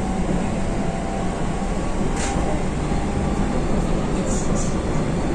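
Keihan limited express electric train running along the line, heard from inside the front car: a steady rolling rumble with a faint motor hum, and a brief high swish about two seconds in.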